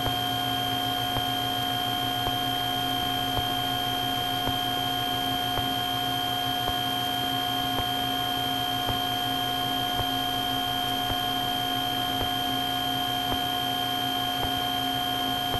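Steady cabin drone of a Cessna 310's twin six-cylinder piston engines in flight, with a thin steady high-pitched whine over it.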